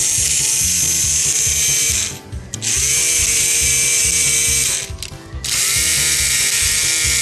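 Plarail toy train's small electric motor and plastic gearbox whirring in three runs of about two seconds each, spinning up with a rising whine at the start of the later runs, as the unit is tested after its stretched clutch was adjusted. Background music with a steady beat plays underneath.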